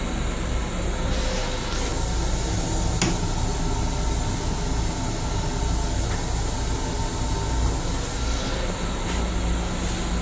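Steady low rumble and hiss of an M7 electric railcar in motion, heard from inside its restroom, with a sharp click about three seconds in and a few fainter knocks later.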